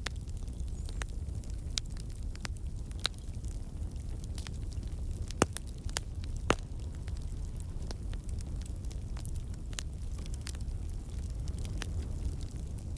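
Wood campfire burning with a steady low roar of flame and scattered sharp crackles and pops from the logs, two louder pops about halfway through. The crackling comes from water and sap in the wood turning to steam and escaping.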